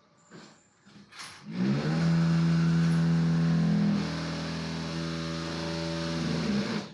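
Production-line machinery in a concrete block plant spinning up with a short rising whine, then running with a loud, steady hum. The hum drops in level about halfway through and cuts off suddenly at the end.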